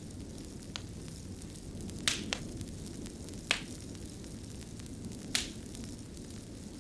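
Wood fire burning with a low steady rumble and sharp crackles and pops, the loudest about two, three and a half and five seconds in.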